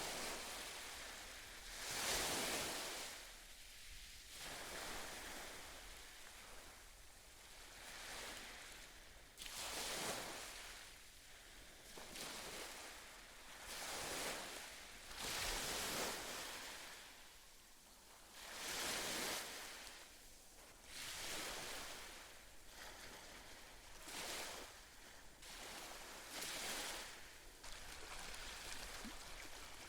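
Gentle sea waves washing onto the shore, each wash swelling and fading, one every two to three seconds.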